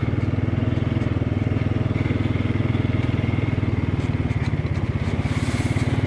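Motorcycle engine running at a steady speed while riding, with a fast, even firing pulse.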